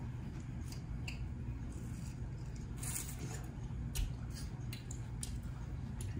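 A person chewing juicy fruit close to the microphone: wet squishing mouth sounds with scattered short clicks, loudest about three seconds in.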